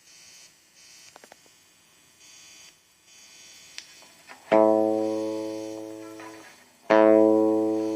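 ZT Lunchbox Jr guitar amp with a hissing buzz that cuts in and out every half second or so, the ground noise fault, and a few small clicks. Then an electric guitar is struck twice, about two and a half seconds apart, each note ringing out loudly and fading.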